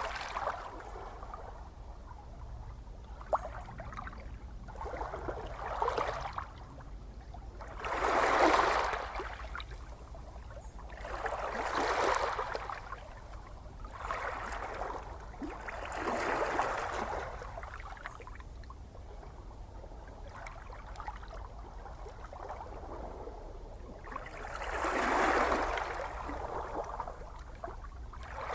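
Gentle ocean waves washing in and receding, a swell of surf every few seconds. The biggest comes about a third of the way in and again near the end, over a steady low rumble.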